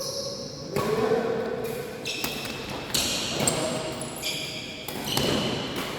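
Badminton play in a large hall, echoing: sharp strikes of rackets on the shuttlecock and several short high squeaks, typical of shoes on the court floor.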